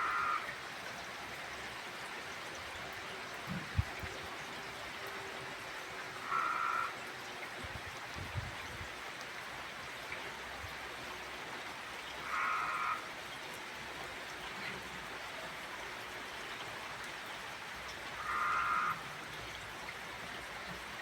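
Steady rain falling in a summer storm. A short, higher-pitched sound repeats four times, about every six seconds.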